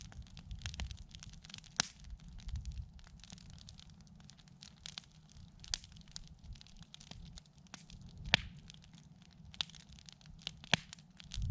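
Campfire crackling: wood popping in irregular, sharp snaps, the loudest about two-thirds of the way in and again near the end, over a low rumble.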